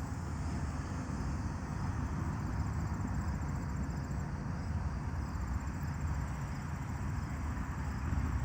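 Steady low rumbling background noise, with a faint high chirring pulsing above it.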